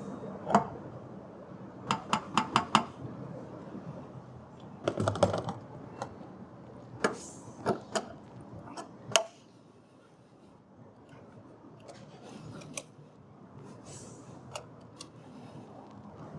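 Sharp clicks and clacks of small hard objects being handled: a quick run of four about two seconds in, a dense cluster around five seconds, then several single clicks. After about nine seconds only a few faint clicks stand out over a quieter background.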